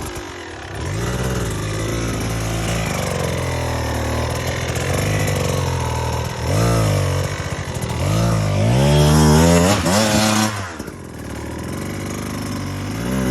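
Dirt bike engine revving under throttle, its pitch rising and falling several times. It is loudest about nine to ten seconds in, then drops suddenly to a quieter, steadier run.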